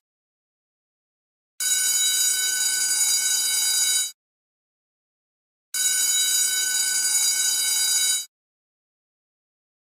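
School bell ringing in two bursts of about two and a half seconds each, starting and cutting off suddenly, with dead silence between them.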